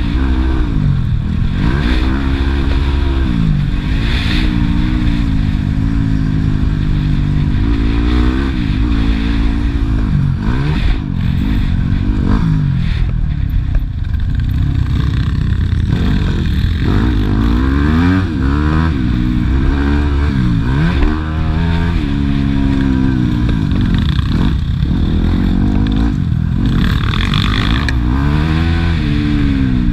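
Yamaha YZ250F single-cylinder four-stroke motocross bike engine being ridden hard, revving up and dropping back again and again through the gears, with a steady low rumble underneath.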